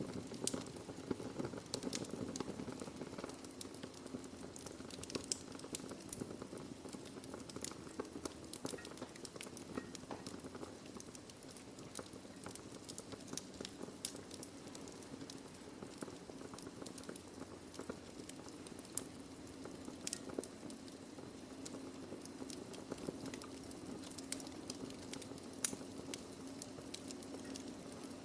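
Wood fire burning in a fireplace: irregular crackles and pops from the logs over a steady low hiss, with one sharper pop near the end.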